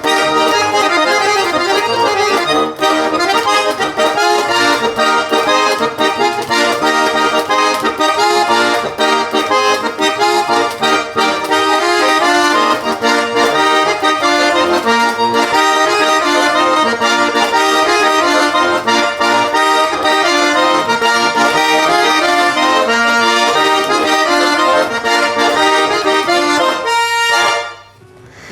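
Garmon (Russian button accordion) playing a lively instrumental tune with quick runs of notes. It stops shortly before the end.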